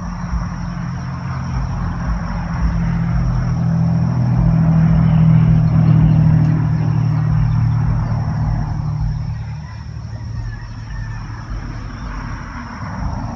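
Bees buzzing close to the microphone around flowering gai choi. It is a steady low hum that swells to its loudest about halfway through, then eases off.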